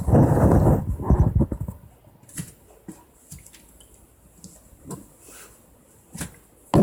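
Knocks, taps and rustling of a cat pawing at and climbing on a washing machine's lid, busy for about the first two seconds, then only scattered faint taps.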